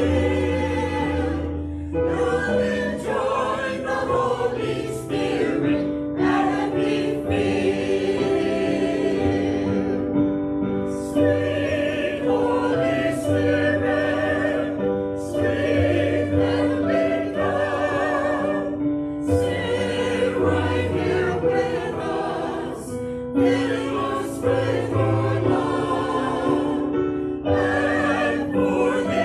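Choir singing a worship song in phrases, with held notes and a low bass line under the voices.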